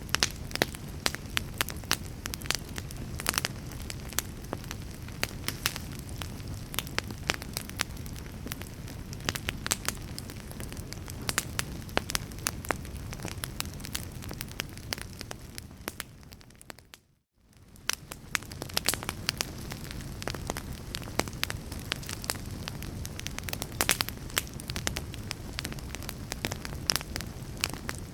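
Wood fire crackling: a steady low rumble of flames with frequent sharp pops and snaps. About two-thirds of the way through, the sound fades smoothly to silence for a moment and then fades back up.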